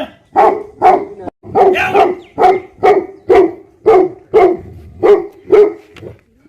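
Tibetan mastiff barking repeatedly in deep, evenly spaced barks, about two a second, stopping shortly before the end.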